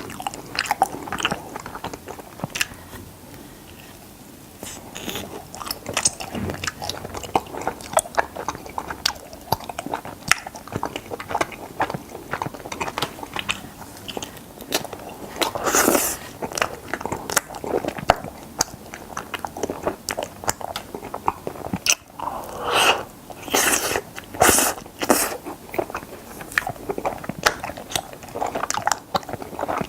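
Biting and chewing strawberry mochi ice cream: a steady run of wet mouth clicks and crunching bites, with a few louder bites around the middle and again near the end.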